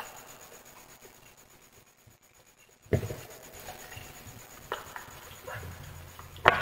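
Wood fire crackling, with scattered sharp pops. It is faint at first and gets suddenly louder about three seconds in, with the loudest pops near the end.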